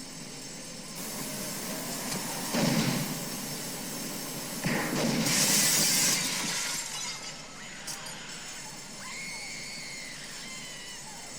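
Action-film soundtrack with two heavy crashes, then a burst of shattering glass over background music. Arching high tones follow near the end.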